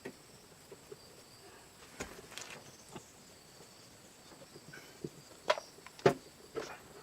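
Faint steady high-pitched insect chirring, with scattered clicks and knocks that grow louder in the second half.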